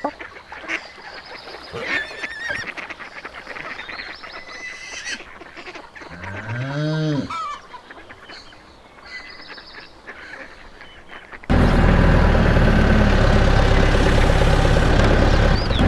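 Honking bird calls, with one long rising-then-falling call midway. About eleven seconds in, a loud steady motor drone starts abruptly and becomes the loudest sound.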